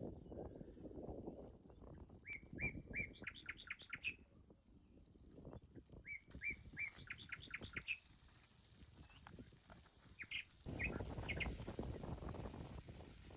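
A songbird singing: two similar phrases of a few notes followed by a quick run of rising notes, then a short fragment near the end, over low rustling in the background.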